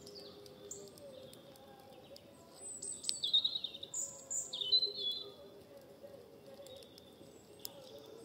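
A songbird chirping, a cluster of short high calls and trills loudest about three to five seconds in, over a faint steady hum and scattered faint clicks.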